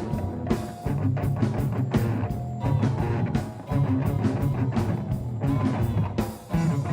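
Heavy metal band playing live: distorted electric guitars, bass and drum kit, with brief breaks in the riff about a second in and near the end.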